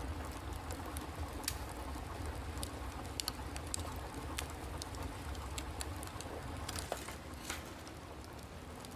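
Steady outdoor ambience: a low continuous rumble with many small scattered ticks and clicks, like light patter.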